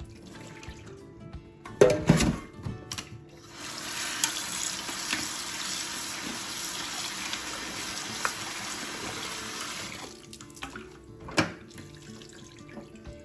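Kitchen tap running into a steel bowl of raw chicken pieces in a stainless-steel sink, a steady rush of water for about six seconds that cuts off near the end. Before it comes a loud knock, and another sharper knock follows after the water stops, over quiet background music.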